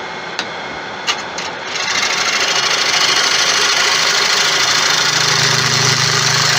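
A turning gouge cutting into a large tiger wood bowl blank spinning on a wood lathe, taking the hard shoulder off the foot. A few light ticks come first, then from about two seconds in the cut sets in as a loud, steady hiss of wood being shaved. A low pulsing hum joins it near the end.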